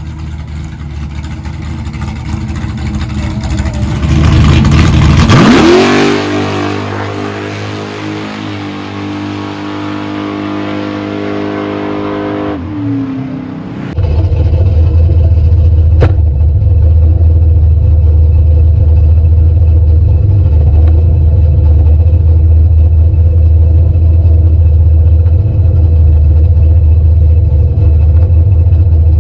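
Car's 408 cubic-inch V8 accelerating, its pitch rising and then holding steady. About halfway through, the sound changes abruptly to a loud, steady low rumble.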